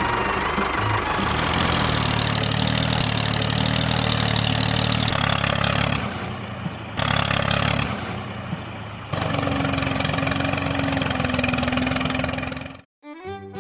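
A small engine running steadily, with its sound shifting abruptly several times, then cutting off suddenly near the end.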